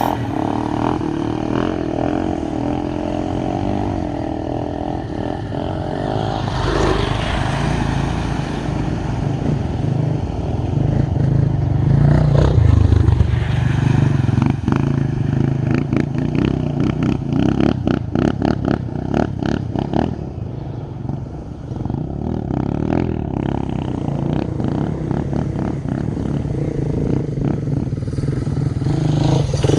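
Dirt bike engine running while being ridden, its pitch rising and falling with the throttle, with a spell of clattering from about halfway through.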